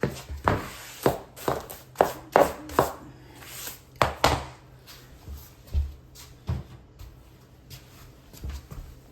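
Irregular knocks and clunks, close together for the first four seconds or so, then sparser.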